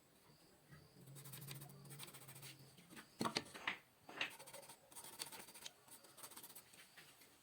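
Light scratching and a few soft knocks, as of wood being marked and handled by hand, with no saw cutting.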